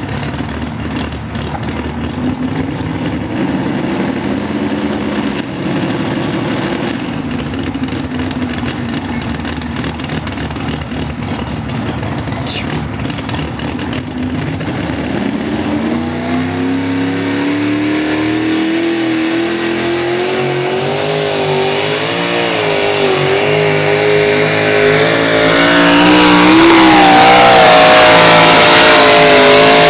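Two-wheel-drive pickup truck's engine under heavy load pulling a sled down the track. It runs steady and wavering for the first half, then the pitch climbs and it grows louder as the truck digs in, loudest near the end.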